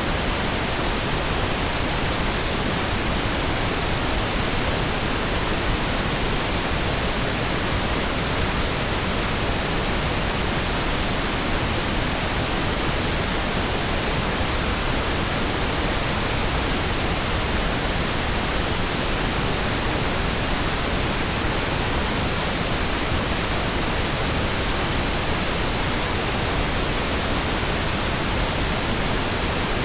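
Pink noise: a steady, even hiss spread across all frequencies, with no change, tones or breaks.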